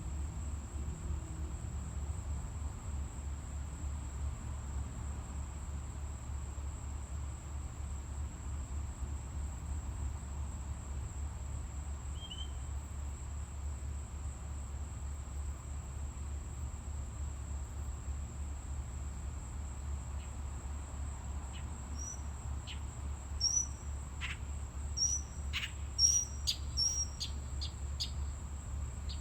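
A steady high-pitched insect trill over a low rumble, with a bird's occasional short chirp; in the last several seconds a bird gives a rapid series of sharp chirps.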